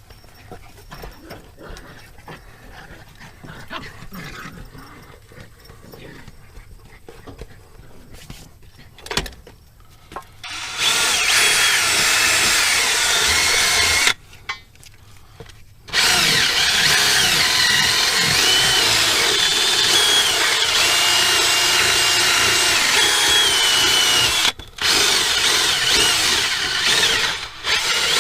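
Power buffing tool running against the rubber of a tractor tire's inner tube, roughing the surface for a patch. Faint handling noises come first. About a third of the way in the buffer starts, stops for a couple of seconds, then runs again with a brief break near the end.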